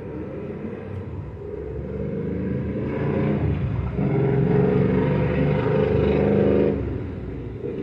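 A motor vehicle's engine passing close by, growing louder over several seconds and then dropping off sharply near the end.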